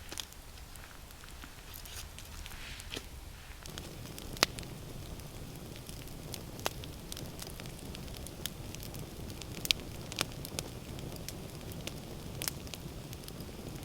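Wood campfire crackling, with sharp irregular pops every second or so. A low steady rumble comes in about four seconds in.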